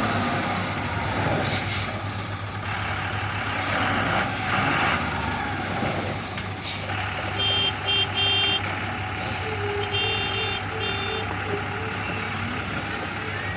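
Heavy Tata 3118 truck's diesel engine running steadily, with two short runs of high pulsing beeps, typical of a reversing alarm, partway through and a few bursts of hiss early on.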